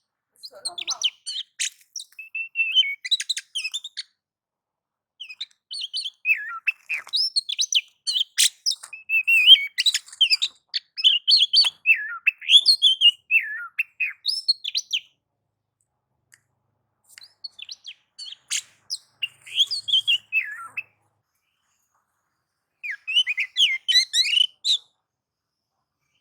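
Oriental magpie-robin (kacer) singing in bursts of fast, varied chirps, whistles and rattling notes, with silent gaps of a second or two between phrases. This is the agitated 'nagan/ngobra' song of a bird in fighting mode, the kind played to provoke other kacer into singing.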